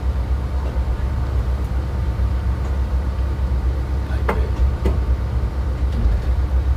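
Steady low rumble of a boat's engine, with two faint knocks about four and five seconds in.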